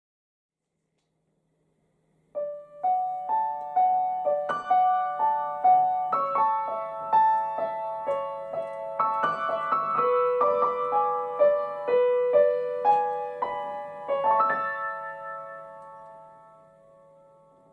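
Solo piano melody with struck notes and a steady low hum underneath, starting about two seconds in and fading out near the end.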